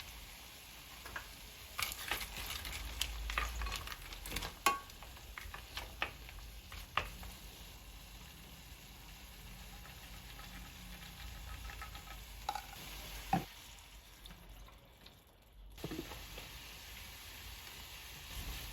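Food frying and sizzling in a pan, with sharp clicks and scrapes of a utensil stirring it, and a brief lull about three-quarters of the way through.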